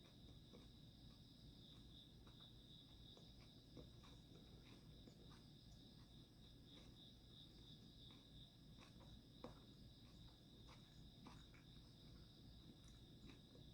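Faint, steady chirring of crickets, pulsing evenly, with scattered soft clicks and taps from eating throughout.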